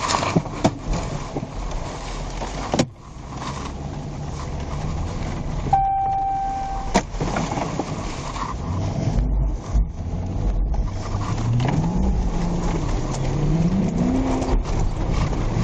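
Patrol car driving, heard from inside the cabin: a steady engine and road rumble with scattered knocks and rattles. There is a short electronic beep about six seconds in, and the engine pitch rises twice near the end as the car accelerates.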